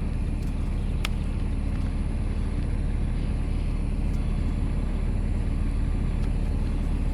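Vehicle engine idling steadily, with one sharp click about a second in.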